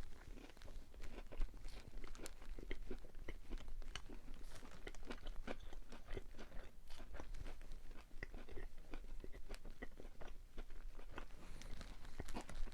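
Close-miked chewing and crunching of a breaded fried chicken sandwich, a steady run of irregular crisp crunches and mouth sounds.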